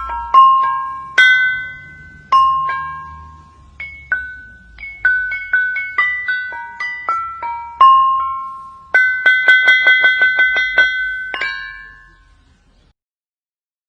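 Ringing stones (a lithophone) struck one note at a time, at several pitches, each note ringing clearly and fading. About nine seconds in comes a quick run of rapid strikes, and the ringing then dies away to quiet near the end.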